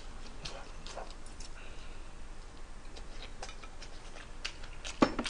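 A person eating: chewing with scattered small, wet mouth clicks and smacks, and two louder clicks about five seconds in.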